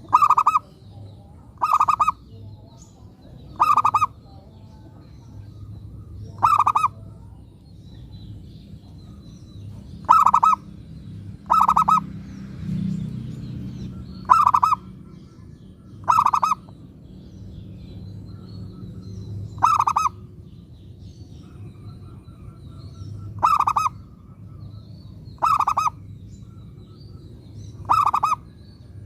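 Zebra dove (perkutut) cooing: a dozen short, clear coos, one every two to four seconds, over a low steady hum. A brief low rumble comes about halfway through.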